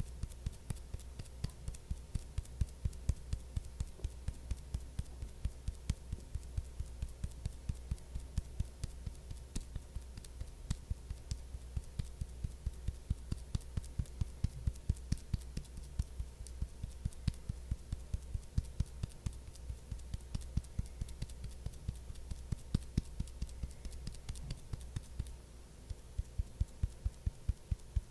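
Rhythmic soft tapping or patting, about three to four taps a second, kept up evenly, over a steady low hum.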